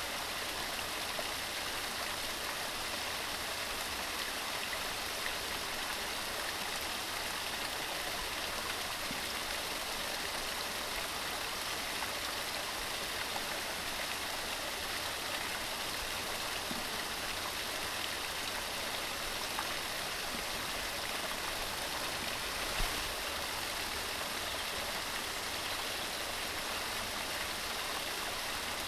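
Mountain stream running steadily over rocks, an even rushing of water. One brief low thump about three-quarters of the way through.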